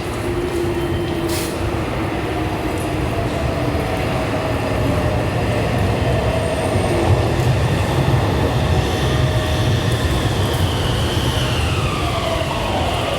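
Meitetsu 2000 series electric train running, a steady rumble of wheels and motors. Near the end its motor whine glides down in pitch.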